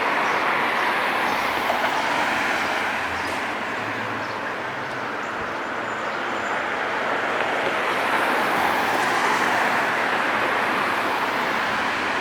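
Steady rushing noise of vehicles passing close by, easing off around the middle and swelling again near the end.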